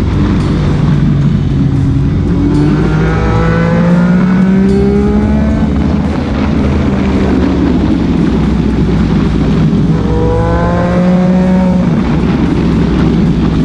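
Motorcycle engine accelerating twice, the pitch rising and then holding, about three seconds in and again about ten seconds in, over a steady low rumble.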